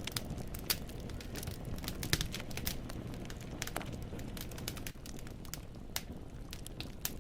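Wood fire burning in a fireplace: irregular sharp crackles and pops of the logs over a low steady rumble of the flames.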